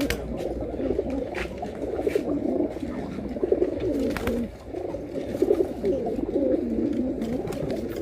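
Several domestic pigeons cooing at once in overlapping, continuous throaty coos, with a few sharp clicks among them.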